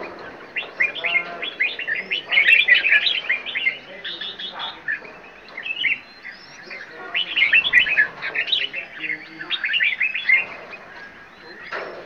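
Several caged songbirds chirping and calling, overlapping in flurries of quick high notes that come in phrases every few seconds.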